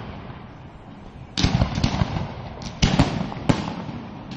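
Fireworks display: after a quieter first second or so, a loud bang followed by sharp crackling reports, then a second loud bang about a second and a half later with more cracks, each trailing off.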